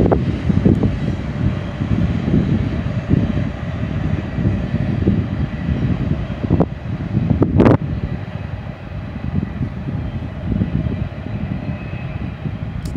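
Double-stack intermodal freight train's cars rumbling over the rails as the end of the train rolls away, an uneven low rumble with a faint steady tone over it. A brief sharp noise about seven and a half seconds in.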